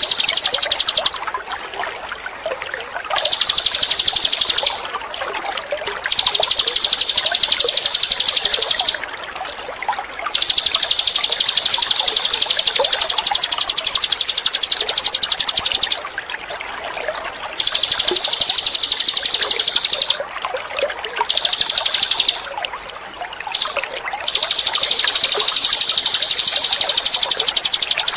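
High, buzzing trill of a ninin eurih songbird, sung in long stretches of several seconds broken by short pauses, over a steady trickle of running water.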